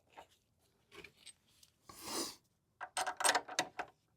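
Metal clicks and rubbing from a wrench tightening a Brembo brake caliper's mounting bolt. There are scattered clicks, a short scraping rub about two seconds in, and a quick run of clicks about three seconds in.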